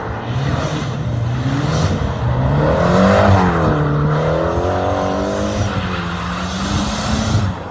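Subaru Impreza's flat-four boxer engine revving, its pitch climbing about three seconds in, wavering, then easing back down.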